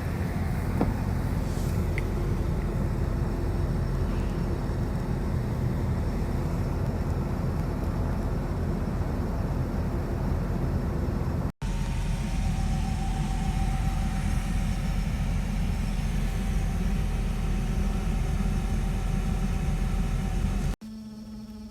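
Steady low rumble of a vehicle driving, road and engine noise with a faint steady hum over it. It cuts off abruptly twice, about halfway through and just before the end.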